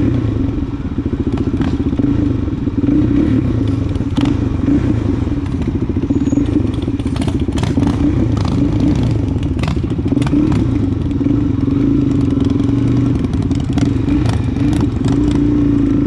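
Suzuki DR-Z400SM's single-cylinder four-stroke engine running at low speed, its note dipping and picking up again, with scattered clicks and knocks through the middle.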